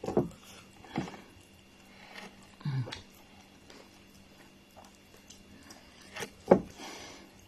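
A few scattered light knocks and clicks in a small room, with one sharper, louder knock about six and a half seconds in.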